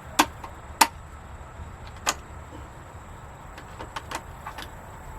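Shotgun shells being pushed into an AK-style shotgun's box magazine: three sharp clicks in the first two seconds, then a few fainter ticks, as a shell is forced against a magazine that will not take it.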